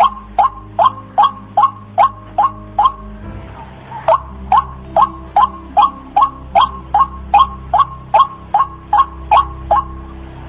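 White-breasted waterhen calling: a loud "kru-ak" note repeated about two and a half times a second, each note falling in pitch. The calling breaks off for about a second, three seconds in, then resumes at the same pace.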